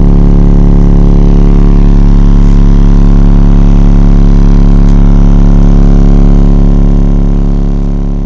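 Loud, sustained low bass drone, one steady pitched note with a stack of overtones, that holds unchanged and then fades out over the last second or two.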